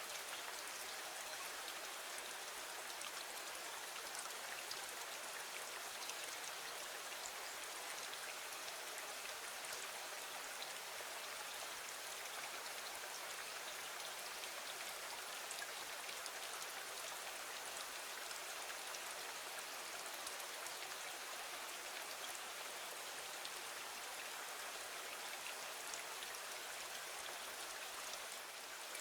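Steady rain falling against a window, an even hiss with scattered small drop ticks.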